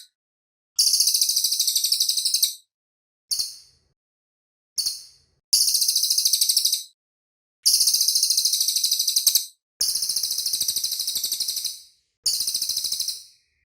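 Cililin bird singing in rapid, dense, high-pitched trills. The phrases come as about seven bursts, most of them one to two seconds long and two of them very short, with brief silent gaps between.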